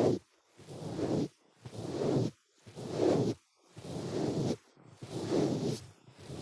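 Ear cleaning in an ear: a steady run of rubbing, scraping strokes at about one a second, each a short swish.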